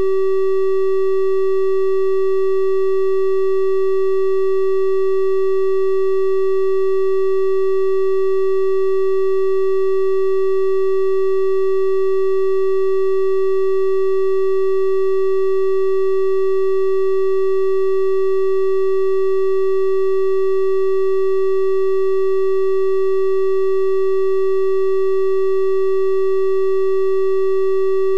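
A synthesized 384 Hz triangle-wave tone held at one steady pitch and level, with faint higher overtones giving it a slightly brighter, softer-edged sound than a pure sine.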